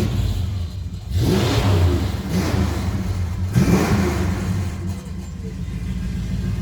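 A car engine idling steadily, revved up twice, about a second in and again near four seconds in.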